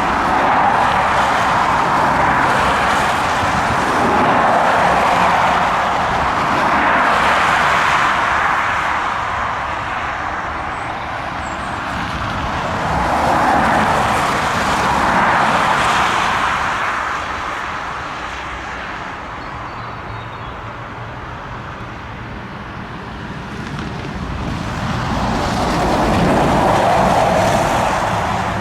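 Road traffic: several cars passing close by one after another, each a rising and fading rush of tyre and engine noise, with a quieter lull near the two-thirds point.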